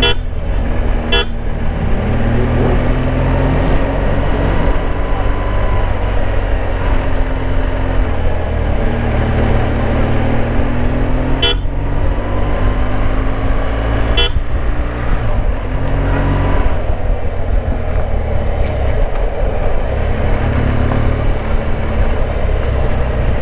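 BMW R 1200 GS motorcycle's boxer-twin engine running while riding through town traffic, its pitch slowly rising and falling with speed, over road and wind noise. Short horn toots sound twice right at the start and twice more around the middle.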